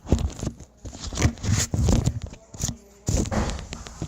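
Handling noise close to the microphone as the camera is positioned and set up: irregular knocks, clicks, scrapes and rustling, with a few brief pauses.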